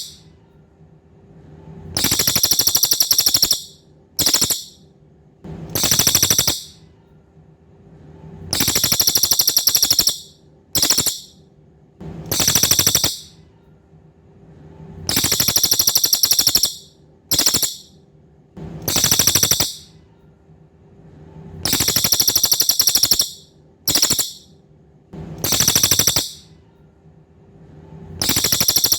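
A cililin songbird repeating high, rapid buzzy trills, each about one to one and a half seconds long, with a shorter trill between some of them, every couple of seconds, over a faint steady hum.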